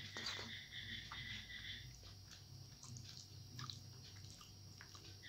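Soft chewing and the wet squish of rice and dal being mixed by hand. A rhythmic high chirping runs through the first two seconds, then stops.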